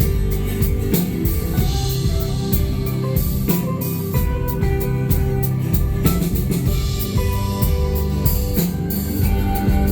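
Live rock band playing an instrumental passage: drum kit keeping a steady beat under guitars and sustained notes, heard as a concert recording from the audience.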